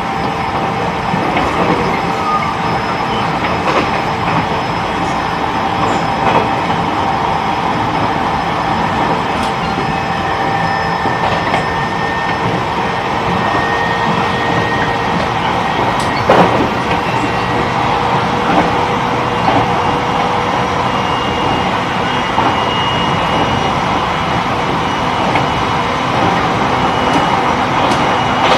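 E129 series electric train running at speed, heard from inside the car: a steady rumble of wheels on rail overlaid by the steady high whines of its Toyo IGBT inverter and traction motors. Occasional clicks as the wheels cross rail joints, one sharp one a little past halfway.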